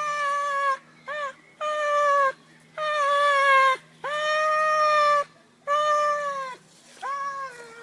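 Domestic cat meowing repeatedly: seven drawn-out meows, one of them short, each falling slightly in pitch at its end.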